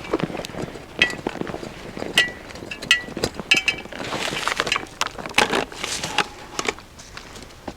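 Metal cooking pot and its wire bail clinking, several knocks ringing briefly, mixed with irregular knocks and rustling as wooden branches and the pot are handled.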